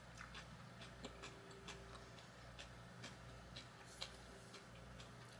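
Faint eating sounds: small, irregular clicks and ticks, one a little louder about four seconds in, over a low steady hum.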